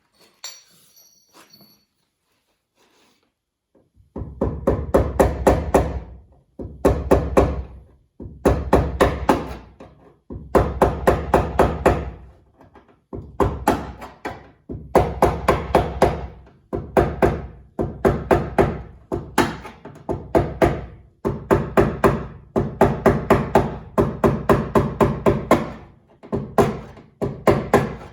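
Rapid hammer blows on the Civic's sheet-metal quarter panel, in bursts of a second or two with short pauses between, as the patch is worked to fit.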